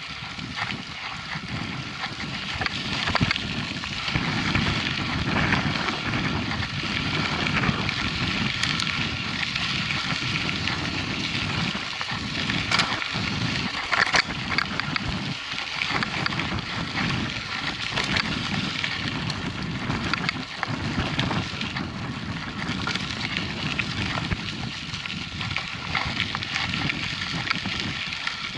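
Mountain bike rolling over a rough dirt track: a steady crackling rumble of tyres on loose ground, with scattered sharp clicks and knocks from the bike rattling over bumps.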